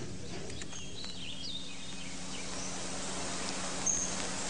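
Outdoor ambience: a steady low hum with a few short, high bird chirps about a second in and again near the end.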